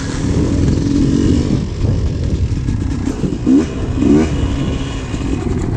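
Yamaha YZ250 two-stroke 250cc dirt bike engine running under way after a shift into third gear, the revs rising and dropping in two short blips about three and a half and four seconds in.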